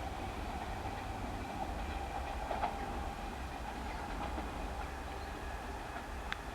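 A train running at low speed: a steady hum over a low rumble, with a few faint clicks from the wheels on the rails.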